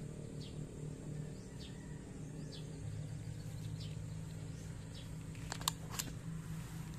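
Short, faint bird chirps about once a second over a steady low hum, with two sharp clicks near the end.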